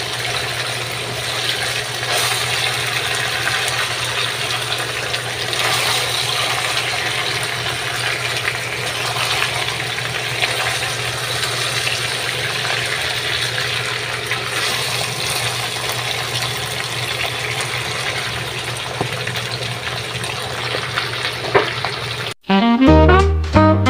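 Pork belly frying in adobo sauce in a wok, a steady sizzle with a low hum underneath and a few scrapes of the spatula as it is stirred. Near the end the sizzle cuts off abruptly and jazzy brass music starts.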